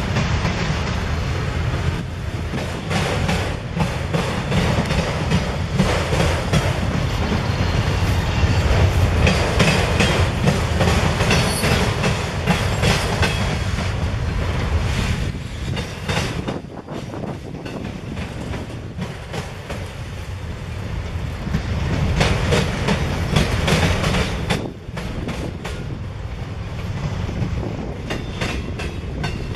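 A train's railroad cars rolling past with a steady heavy rumble, the wheels clacking over rail joints, and a brief high wheel squeal about eleven to twelve seconds in.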